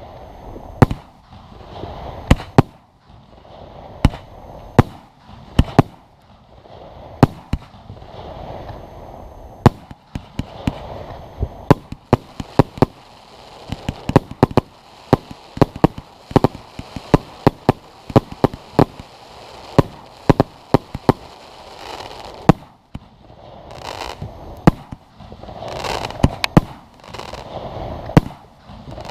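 Fireworks display: shells bursting in sharp, irregular bangs, coming thick and fast in the middle, over a steady wash of noise. A brighter hiss swells between bangs near the end.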